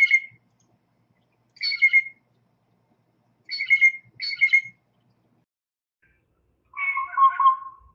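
Blue jay giving four short, harsh jay calls. Near the end comes one longer, lower call: the jay's call played back slowed down to about half speed.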